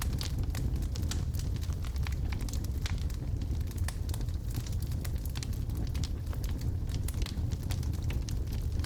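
Wood logs burning in a fireplace, crackling with many irregular sharp pops and snaps over a steady low rumble of the fire.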